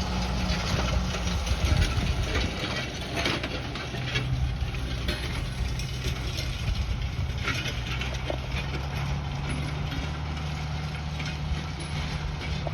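Farm tractor engine running steadily while pulling a disc harrow, with the harrow's metal clanking and rattling on top, a few sharper clanks now and then.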